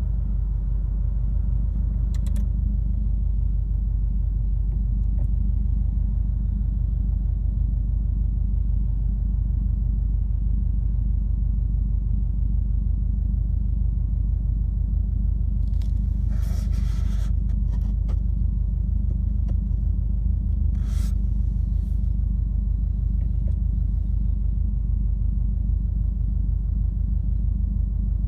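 Subaru WRX's turbocharged flat-four with an Invidia dual N1 exhaust, heard from inside the cabin while cruising: a steady low drone. Two short higher-pitched noises cut in briefly about two-thirds of the way through.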